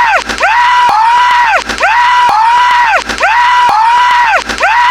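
A short high-pitched wailing sound looped over and over as a stutter edit. Its pitch rises, holds and falls again roughly every 0.7 s, with a click at each splice of the loop.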